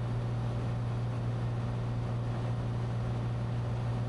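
Cessna 182T in level cruise: the steady drone of its engine and propeller, with a strong constant low hum and even rushing noise that does not change.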